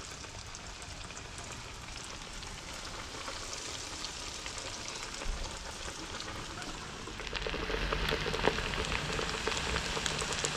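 Crumbed herring fillets frying in a pan of hot oil: a steady sizzle that grows louder and more crackly about seven seconds in, with one sharper pop. The oil is hotter than it should be, hot enough to risk burning the first fillets.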